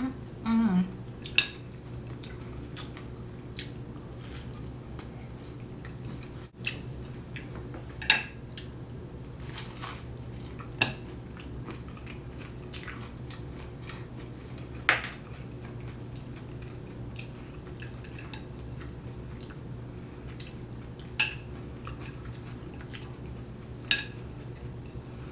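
Cutlery clinking against a plate during a meal: scattered sharp clinks every few seconds, over a steady low hum.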